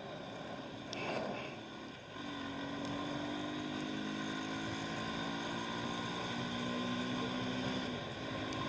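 Motorcycle engine running steadily, a low even hum that settles in about two seconds in, over a constant background of traffic and road noise.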